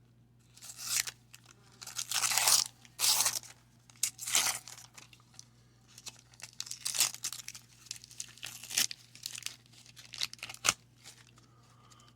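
Wax-paper wrapper of a 1990 Donruss baseball card pack being torn open and crinkled by hand: several loud rips in the first few seconds, then lighter crackling as the wrapper is handled.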